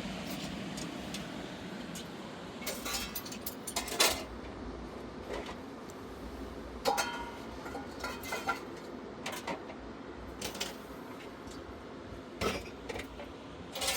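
Dishes and metal utensils clinking and knocking now and then, one knock about 7 seconds in ringing briefly, over a steady background rush.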